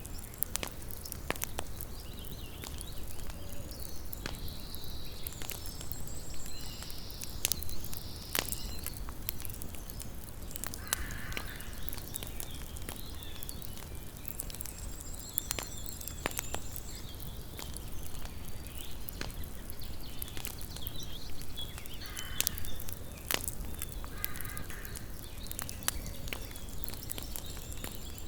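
Wood campfire crackling, with scattered sharp pops over a low steady rumble. Birds call a few times, and a faint high trill repeats now and then.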